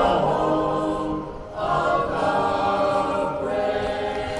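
Several voices singing together, choir-like, in long held notes, with a short break about a second and a half in.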